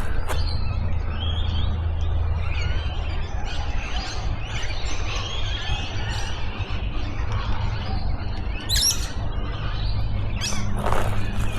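Several birds chirping and calling at once, many short overlapping whistled notes that rise and fall, with a brief sharp high call about nine seconds in. A low steady rumble runs underneath.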